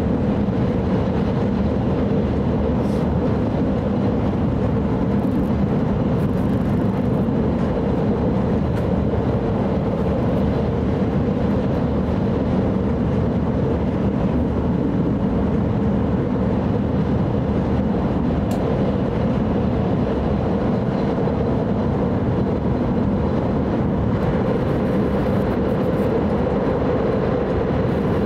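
Steady running noise inside an E5 series Shinkansen car travelling between stations: a constant rumble with a faint steady hum through it.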